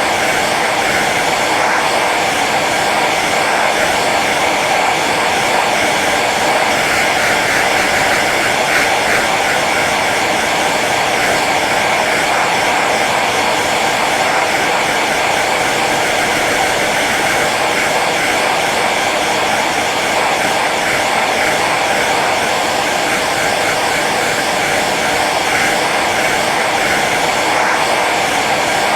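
Hair dryer running steadily on its low setting: an even blowing rush of air and motor noise.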